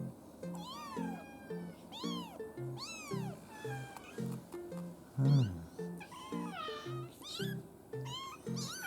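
A 24-day-old kitten mewing: repeated high-pitched calls that rise and fall, coming roughly once a second at first and then more crowded near the end, over background music with a steady beat. About five seconds in there is one louder, low call that falls in pitch.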